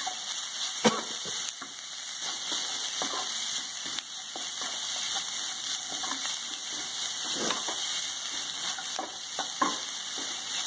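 Boiled radish stuffing sizzling steadily in oil in a kadhai on low heat, stirred with a spatula that scrapes and knocks against the pan at irregular intervals, the loudest knock about a second in.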